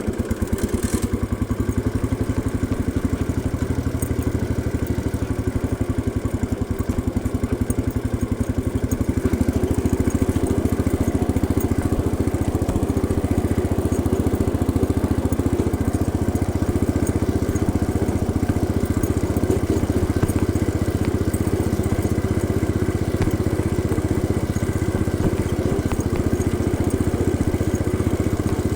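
A 1971 Cub Cadet 106 garden tractor's single-cylinder Kohler engine runs steadily with a rapid, even firing beat while the tractor is driven. It gets a little louder about nine seconds in.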